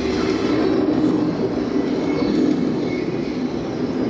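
Steady, loud jet noise from the twin Saturn AL-31FP turbofan engines of a Su-30MKM fighter flying its display.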